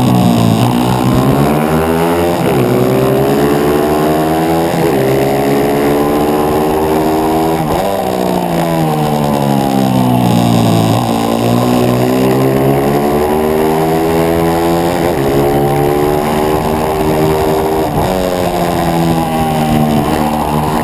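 A 140cc pit bike's single-cylinder engine, heard from on board, revving hard up and down through a race lap. The pitch climbs under acceleration and falls away when braking for corners, with quick drops at gear changes every few seconds.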